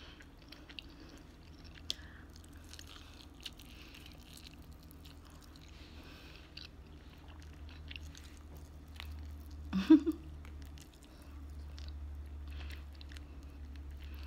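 Close-up chewing and biting of garlic parmesan chicken wings, with soft wet mouth clicks and small crunches. A brief, loud vocal sound cuts in about ten seconds in.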